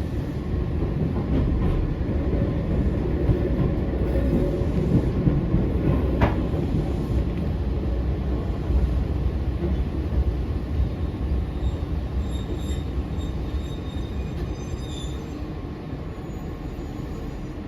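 Eizan Electric Railway 900-series 'Kirara' train running, heard from inside the car: a steady low rumble of wheels on track that eases off gradually over the second half, with faint high-pitched wheel squeal toward the end.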